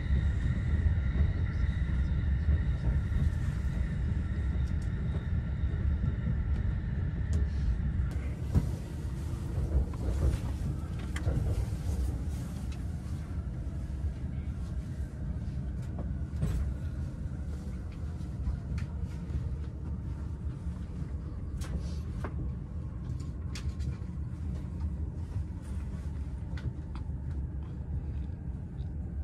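Electric commuter train's running noise heard from inside the passenger car: a steady low rumble, with a whine of several steady tones that fades out after about eight seconds, then scattered clicks and knocks.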